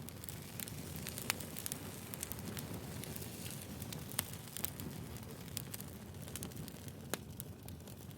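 Burning firewood crackling, with irregular sharp pops over a low steady rustle of the flames; two pops stand out, about a second in and near the end.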